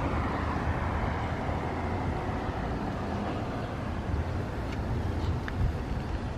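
Steady low rumble with an even hiss, like vehicle noise heard outdoors, holding level throughout.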